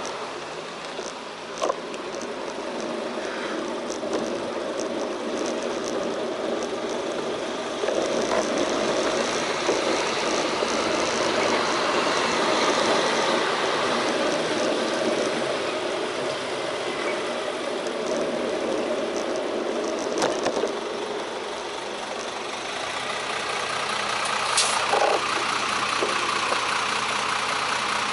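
Street traffic: car and truck engines running and idling, with a steady noise of passing traffic that grows louder about a third of the way in.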